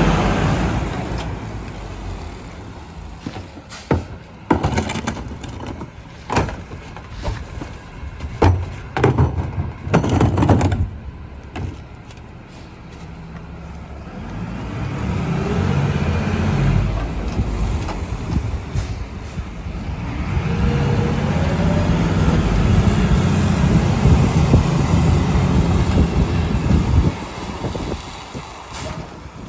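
Garbage truck packing a load: a run of clanks and bangs as trash and bins hit the hopper, then the engine revs up to drive the hydraulic packer, first briefly, then held for about seven seconds with a rising whine on top before it drops back.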